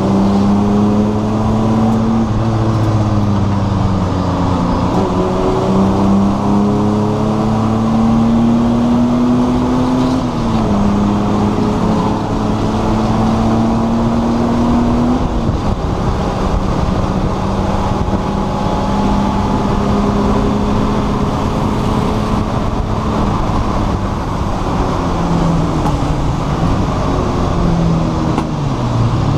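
A race car's engine heard from inside the cockpit, running hard under acceleration. Its note climbs and drops abruptly twice, about ten and fifteen seconds in, as it shifts up. It then holds steady and steps down near the end as the car slows.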